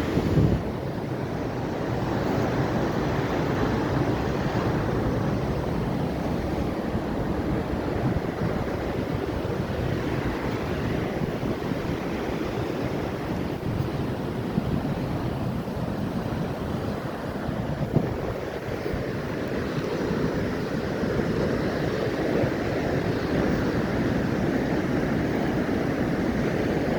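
Atlantic Ocean surf, waves washing in with a continuous rushing that swells and eases, with a brief low thump right at the start.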